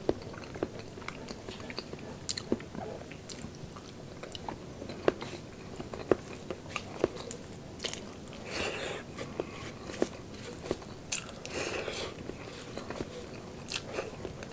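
Close-miked chewing and wet mouth clicks of a person eating tender braised pork by the mouthful, with sporadic sharp smacks and two longer, noisier stretches about eight and twelve seconds in.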